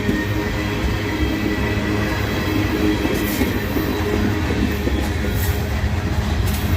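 Freight train's tank cars rolling past at close range, a steady low rumble of steel wheels on rail with a few brief high squeaks.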